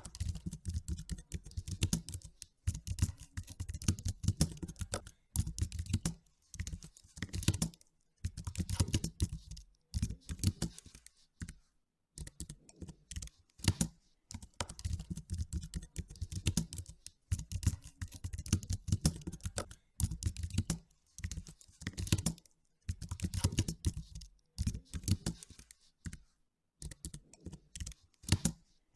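Computer keyboard being typed on in bursts of rapid keystrokes with brief pauses between them.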